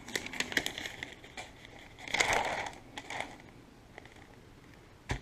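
Newspaper pages rustling and crackling as they are turned, in a run of short crinkles with a longer rustle about two seconds in, then a single sharp click near the end.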